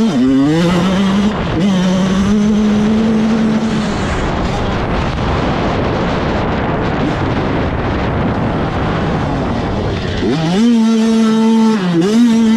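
85cc two-stroke motocross bike engines racing. A bike revs up at the start and holds a steady note, then a rushing noise takes over. Near the end another engine climbs in pitch again with short dips as it shifts gears.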